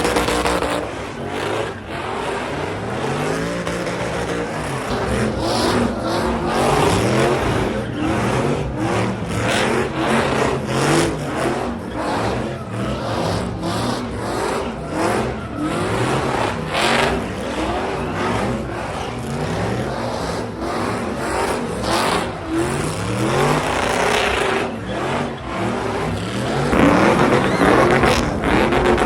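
Motor vehicle engines revving hard over and over, pitch climbing and dropping repeatedly, with many sharp cracks through it, as at a truck meet.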